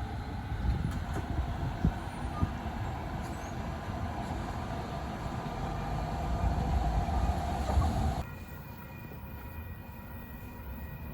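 LA Metro light rail train running, a rumble with scattered knocks. About eight seconds in it drops suddenly to a quieter hum with a faint steady whine.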